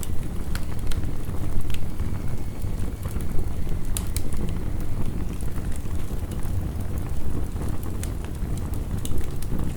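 Heavy rain with a wood fire crackling: a steady low rush of rain under scattered sharp pops and snaps from the fire.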